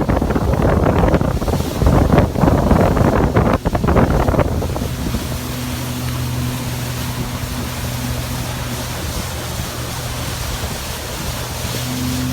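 Motorboat under way: for the first four seconds or so a loud rush of wind buffeting the microphone and water, with a few knocks, then the engine's steady hum comes clear over the wash.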